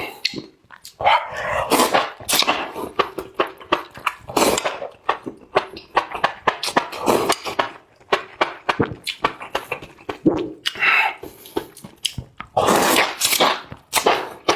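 Close-miked chewing and slurping of spicy enoki mushrooms: a quick run of wet clicks and crunches, with louder slurps about a second in, midway through and near the end.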